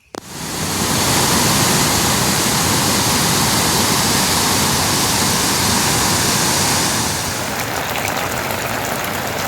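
Heavy monsoon rain falling, a loud steady hiss that starts abruptly. After about seven seconds it eases a little and separate drops can be heard ticking.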